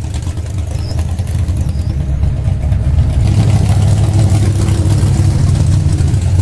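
Racing car engine running hard at high revs, building louder over the first three seconds and then holding steady.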